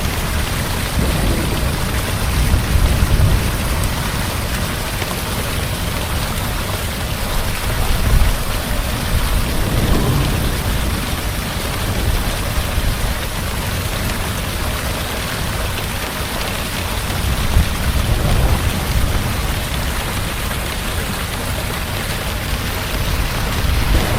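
Heavy rain pouring steadily over a low, rolling rumble of thunder that swells a few times, strongest about ten seconds in.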